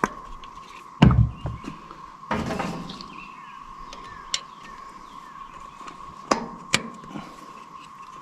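Irregular knocks and sharp clicks of hands working on an old truck engine while fitting spark plug wires. The heaviest is a dull knock about a second in, followed by a short scraping rattle, then a few crisp clicks near the end.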